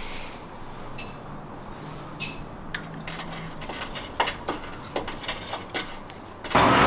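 Hand tools clinking and knocking on metal while the mounting bolts of a 2003 S10 Blazer's failed starter are worked loose. Near the end a loud steady mechanical noise starts suddenly.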